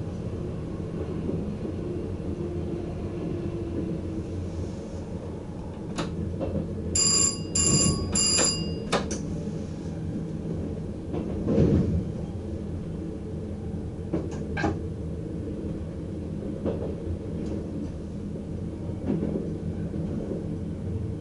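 NS VIRM double-deck electric train running on the track, heard from inside the driver's cab: a steady rumble with clicks and knocks as the wheels cross switches and rail joints, the loudest knock about twelve seconds in. About seven seconds in, a bell-like signal rings three short times in quick succession.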